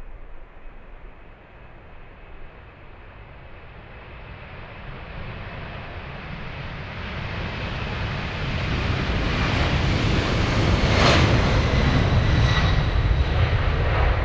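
Boeing 747 jet engines growing steadily louder over about ten seconds as the aircraft draws near. The sound stays loud near the end as a deep rumble with a thin whine.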